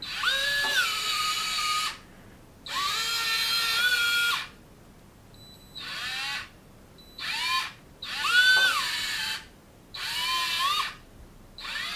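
Small electric micro-motor whining through a worm gear reducer as it raises and lowers a LEGO blade, run in about seven short bursts with pauses between. Each run starts with a quick rise in pitch, then holds steady.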